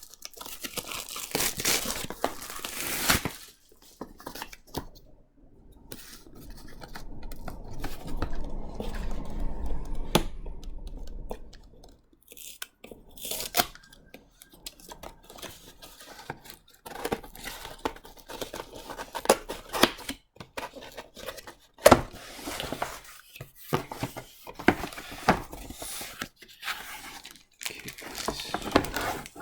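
A cardboard comic book blind box being torn open and its packaging handled: irregular tearing, crinkling and rustling with scattered knocks and clicks.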